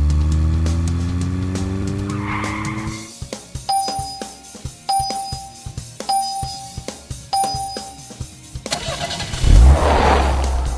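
Cartoon vehicle sound effects: an engine revving up, then four evenly spaced electronic beeps, then a loud whoosh with a deep rumble near the end, over background music.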